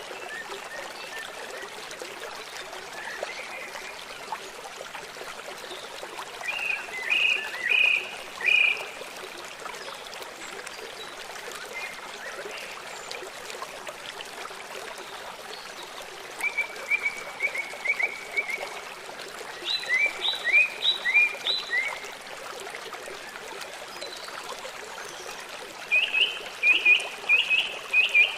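A songbird singing short phrases of quick, sharp notes, in four bouts (one a fast, even trill), over the steady rush of a running stream.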